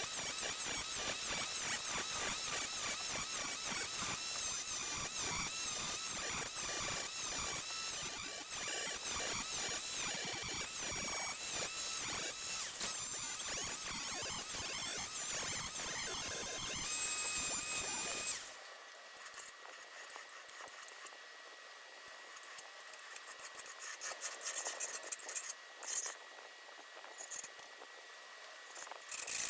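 Rapid, continuous scraping or scrubbing strokes with high, wavering squeaks, stopping suddenly about 18 seconds in. After that comes fainter, intermittent light scratching.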